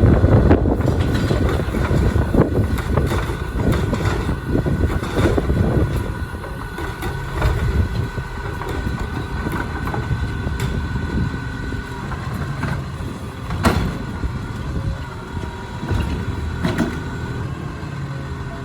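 Peterbilt 520 garbage truck running, a steady low engine rumble with a thin steady whine above it. A few sharp clanks sound over it, the loudest about two-thirds of the way through.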